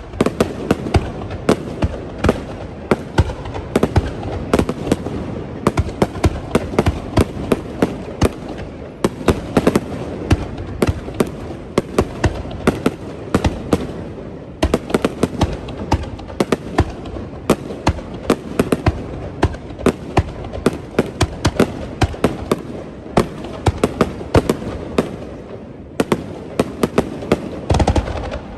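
Fireworks display: a dense, continuous barrage of shell bursts, many sharp bangs and crackling reports in rapid succession over a steady low booming.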